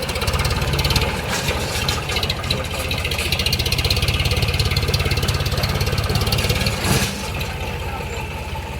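Tractor diesel engine running steadily with fast, even firing pulses. A short knock comes about seven seconds in, after which the engine runs a little quieter.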